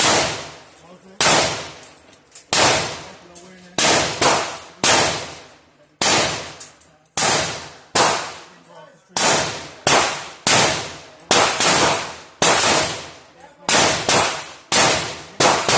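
Gunshots fired one after another, about one to two a second and irregularly spaced, each a sharp crack that rings away into echo.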